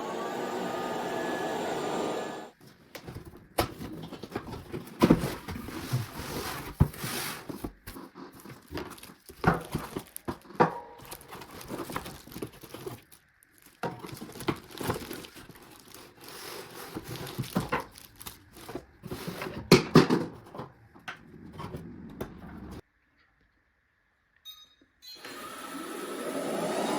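Packaging being handled during an unboxing: irregular knocks, thuds and crinkling rustles, a few of them sharp and loud. A short steady sound opens it, and the sound drops to dead silence for about two seconds near the end.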